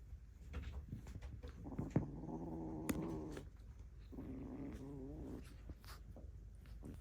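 Kitten giving two drawn-out low calls, each about a second and a half long, the second wavering in pitch, with small taps and knocks around them.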